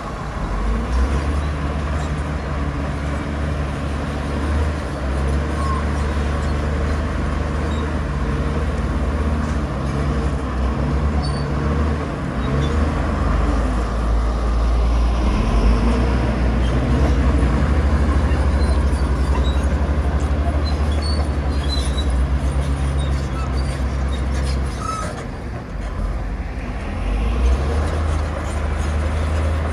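Komatsu bulldozer's diesel engine working hard while pushing soil: a steady, heavy low engine note that swells and eases in strength, with a brief lull a few seconds before the end.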